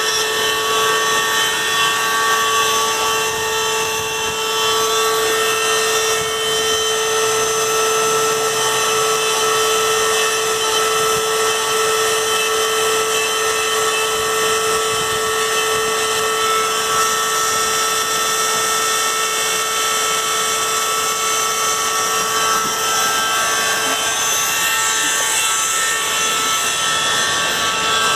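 Small high-speed rotary engraving tool running steadily with a constant whine, engraving anti-theft letters and numbers into a motorcycle's metal.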